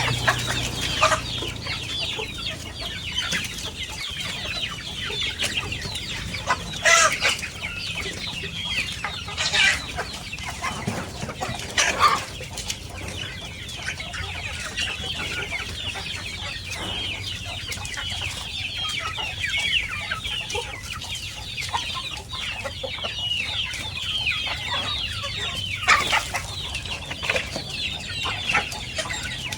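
A flock of village chickens calling and clucking together, a dense continuous chatter of short high calls with a few louder calls standing out now and then.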